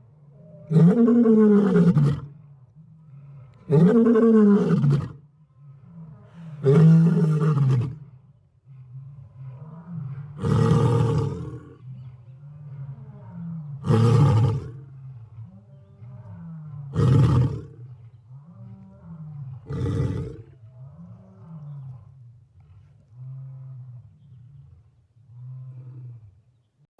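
A lion roaring in a bout: three long, loud roars about three seconds apart, then a series of shorter roars and grunts that fade away toward the end.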